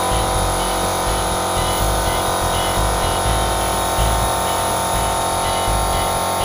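Steady electric buzz over a low hum, like a small airbrush air compressor running without a break.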